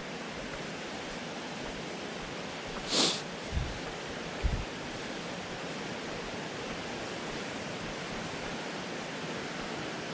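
Steady, even rushing background noise, with a short sharp hiss about three seconds in and two soft low thuds just after it.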